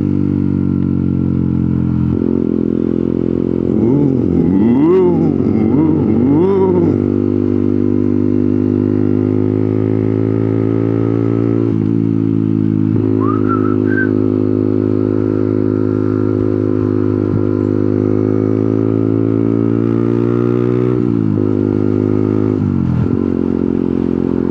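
Motorcycle engine running under way, its note climbing steadily and then dropping at gear changes about 12 and 21 seconds in. A warbling, rising-and-falling tone sits over the engine a few seconds in.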